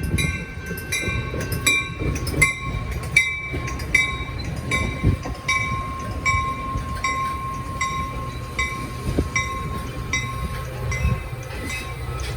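A train passing, its wheels rumbling with irregular thumps over the rails. Over it, a ringing ding repeats about twice a second.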